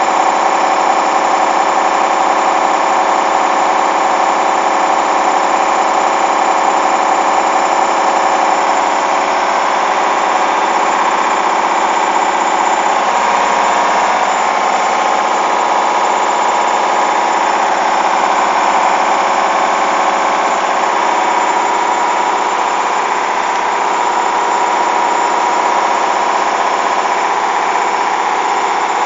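Hoover washing machine spinning at speed, a loud steady mechanical whine from its motor and drum with several fixed tones.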